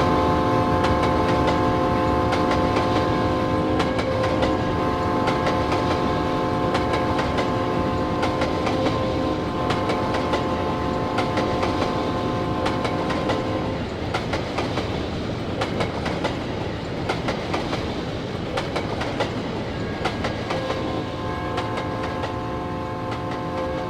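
Union Pacific locomotive's multi-chime air horn blowing a long held chord, cutting off about 14 seconds in and sounding again about 20 seconds in. Under it runs the rumble and wheel clickety-clack of the train's cars rolling over the rails.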